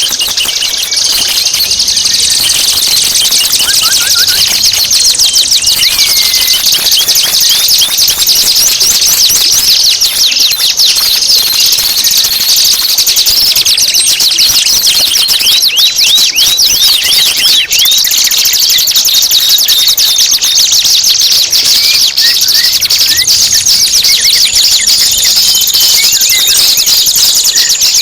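Songbird song recorded for training caged birds: a loud, unbroken stream of rapid, high-pitched chattering trills made of many quick falling notes.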